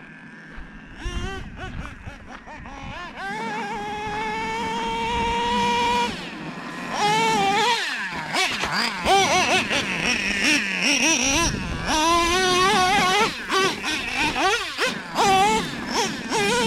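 Traxxas Revo 3.3 nitro RC monster truck's O.S. .21 TM two-stroke glow engine revving, a high buzzing whine whose pitch rises and falls with repeated bursts of throttle. Quieter for the first few seconds, it holds a steady high pitch for a couple of seconds, then goes through several quick rev-ups and drops.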